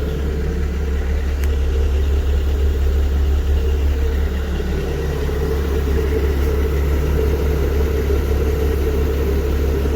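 An engine idling steadily, with a strong low drone.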